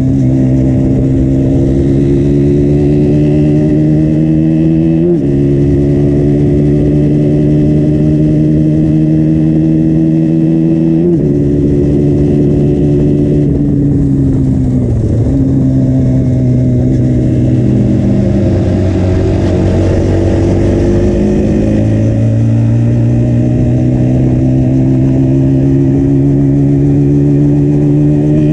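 KTM Duke 125's single-cylinder engine through its stock exhaust, pulling under way: engine speed climbs slowly and drops sharply at shifts about 5 and 11 seconds in, eases down through the middle, then rises steadily again.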